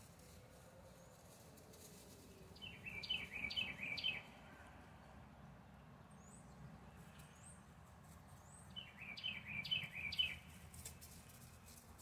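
A songbird sings two short phrases of quick repeated notes, one about three seconds in and one about nine seconds in, over a faint low background rumble.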